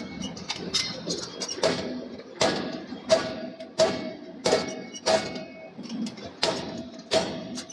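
Forging hammer striking a hot steel billet at a steady pace, about one blow every 0.7 seconds, each blow with a short metallic ring.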